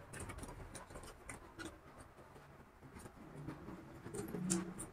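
Faint chewing and small wet mouth clicks of people eating vada pav, soft bread buns with fried potato fritters. A low murmured voice comes in briefly near the end.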